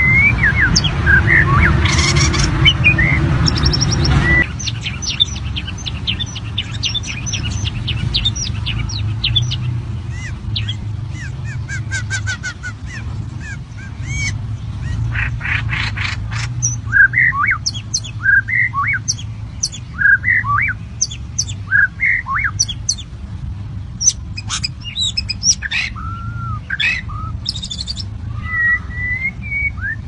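White-rumped shamas calling: many short chirps, harsh squawks and rising whistled notes in quick succession. A loud rushing noise covers the first four seconds or so and stops abruptly.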